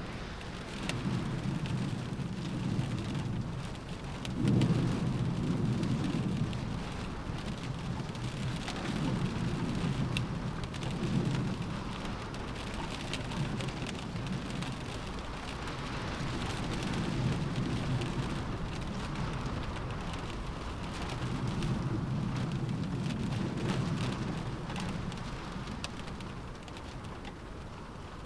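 Steady rain pattering on a window, with many small drop ticks, under low rumbles that swell and fade every few seconds in a storm. The strongest swell comes about four and a half seconds in.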